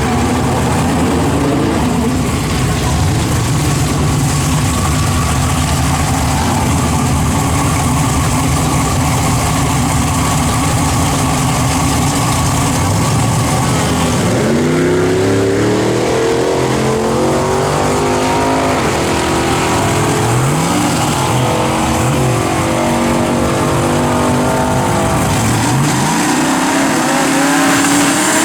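Twin-turbo Chevy pickup engine running steadily, then from about halfway accelerating hard, its pitch climbing and dropping back several times.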